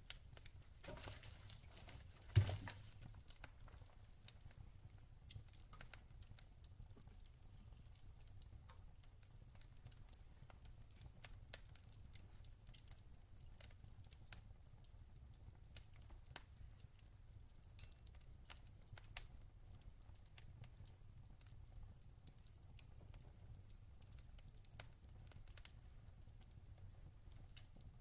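Log fire crackling softly, with scattered small pops and one sharper, louder pop about two and a half seconds in, over a steady low rumble.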